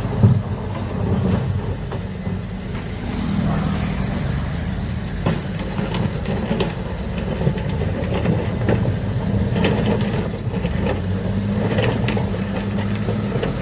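Heavy diesel engine of an excavator running steadily under load, with scattered metallic clanks and knocks from the working machine, the sharpest just after the start.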